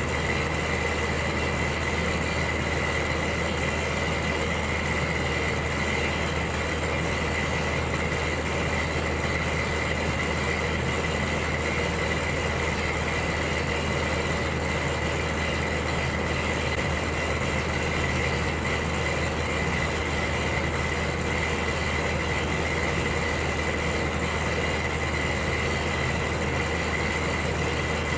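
Electric heater running: a steady low hum under an even rush of noise, with a thin high tone held steady on top.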